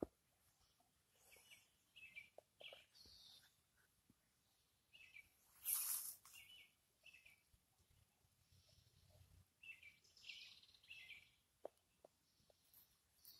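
Faint wild birds chirping: short high notes repeated on and off, with a brief burst of noise about six seconds in.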